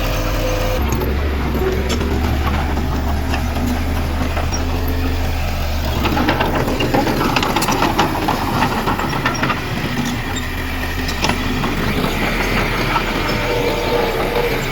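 Diesel engine of heavy earthmoving machinery running under load, its note changing about a second in and again around six seconds, with scattered clanks.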